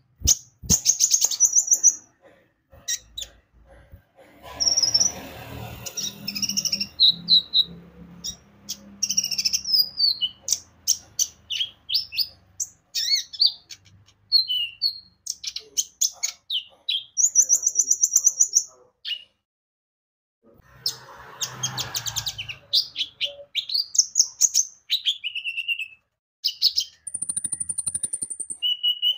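Brown-throated sunbird (kolibri ninja) singing energetically: rapid high chirps, quick trills and short whistled notes in close succession. Twice a low noisy patch sits under the song.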